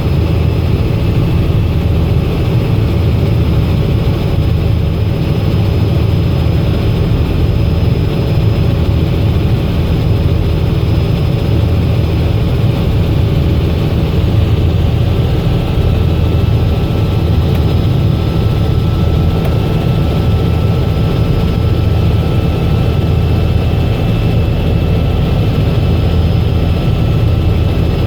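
Robinson R66 helicopter's turbine engine and rotor running steadily: a dense, even low rumble with faint steady high whines above it.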